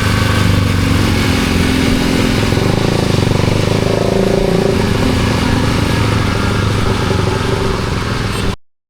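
Suzuki GSX-R150's single-cylinder engine running at a steady speed through an aftermarket SARP exhaust. The sound cuts off abruptly near the end.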